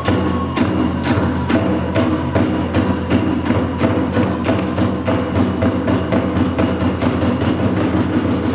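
Hiroshima kagura accompaniment: drum strikes and small hand cymbals beating a quickening rhythm, the cymbals ringing after each beat.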